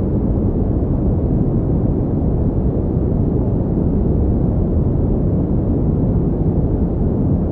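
Synthetic pink noise playing steadily and without change, an even, deep rushing sound that carries most of its weight low and has little high hiss.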